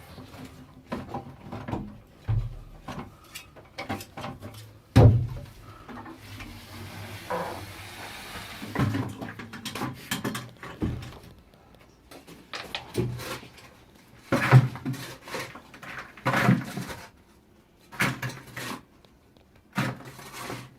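Irregular knocks, scrapes and thuds of hand digging in a narrow shaft, with tools striking rock and soil. A few heavier blows stand out, about five seconds in and again in the last third.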